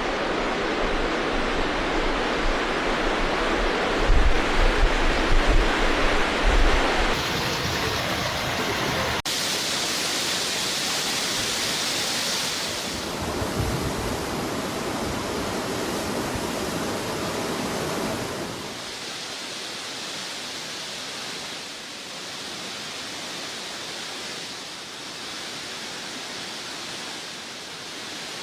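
Steady rushing of floodwater, a dense even noise that shifts abruptly several times, rougher with low surges about four to seven seconds in and quieter and thinner after about eighteen seconds.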